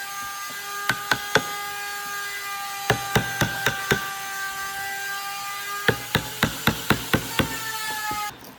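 Woodworking in a shop: a power tool runs with a steady whine while wood is struck with repeated sharp knocks, ending in a quick run of about four knocks a second. The sound cuts off abruptly near the end.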